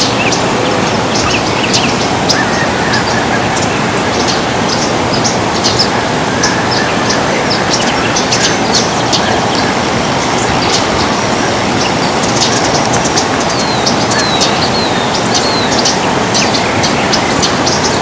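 Small birds chirping and calling in many quick, short, high notes, with a few sweeping whistled notes about two-thirds of the way in, over a steady loud rushing noise.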